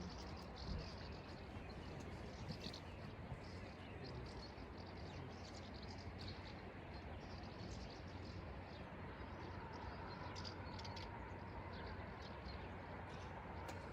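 Small birds chirping in quick, repeated notes over a steady, even background hiss.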